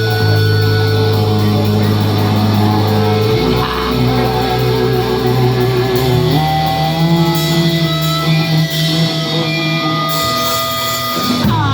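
Live rock band playing an instrumental passage: loud guitars and bass hold sustained chords that change every few seconds, with a shift about three and a half seconds in, another around six seconds, and a busier stretch near the end.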